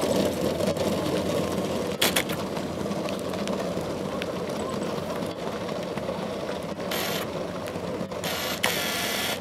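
Human-powered aircraft rolling along the runway on its ground run: a steady mechanical rumble and rattle of the wheel and pedal drive, with short gusts of wind hiss on the microphone twice near the end.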